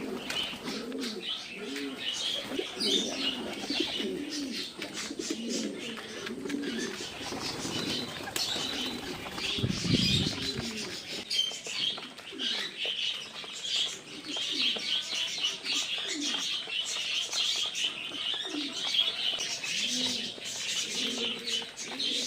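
A flock of pigeons cooing over and over, with high chirping and short ticks and wing flaps among them. A louder low flurry comes about ten seconds in.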